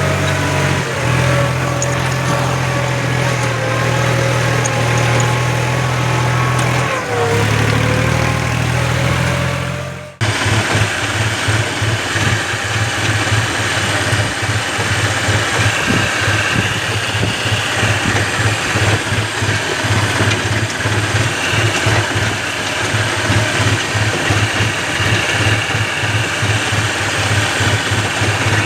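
New Holland tractor's diesel engine running steadily, with a short dip in pitch partway through. About a third of the way in the sound cuts off abruptly and picks up again as an engine running with a fast, even chugging.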